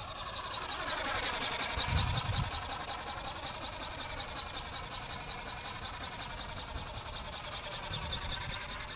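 Small motor and wing mechanism of a model flapping bird in flight, making a buzzing whine with a fast flutter. Its pitch dips over the first couple of seconds and climbs again near the end. There are low thumps about two seconds in and again about eight seconds in.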